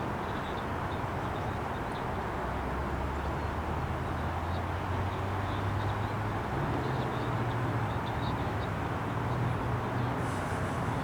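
A GO Transit train's diesel locomotive running, a low steady drone that grows stronger a few seconds in and steps up slightly in pitch past the halfway point, over steady rumbling background noise.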